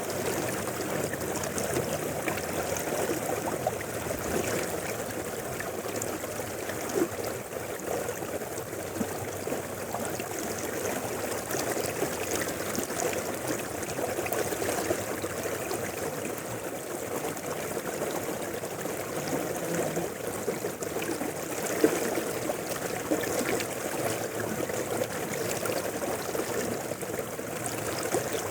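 River water flowing steadily over rocks, a continuous rushing and babbling with small splashes here and there, one slightly sharper about 22 seconds in.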